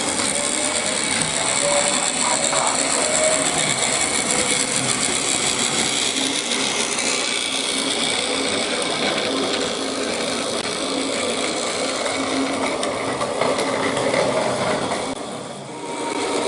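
Battery-powered Plarail toy train running along plastic track, its small motor and gearbox whirring and rattling steadily. The sound dips briefly near the end, then picks up again.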